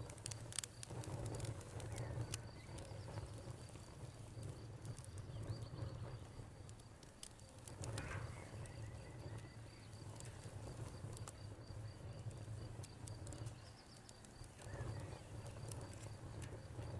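Campfire crackling, with sharp pops that come thickest in the first few seconds, over a low steady rumble of burning wood. A cricket chirps steadily in the background.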